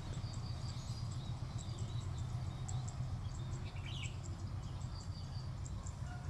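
Trackside outdoor ambience after a passing train: a steady low rumble with repeated short, high chirps of small birds and insects over it.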